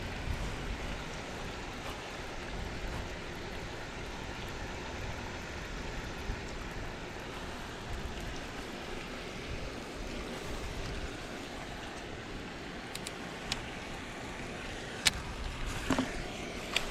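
Steady wind noise over the microphone, with a few small sharp clicks near the end.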